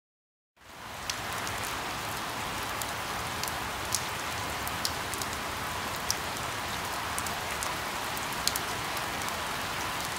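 Steady rain falling, with single drops ticking sharply here and there. It starts abruptly out of silence about half a second in.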